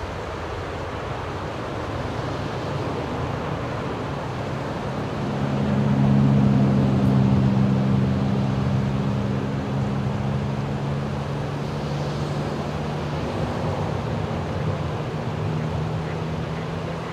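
Jet engines of a twin-engine Boeing airliner at takeoff: a steady rush of engine noise with a low hum that swells about five seconds in, then slowly fades.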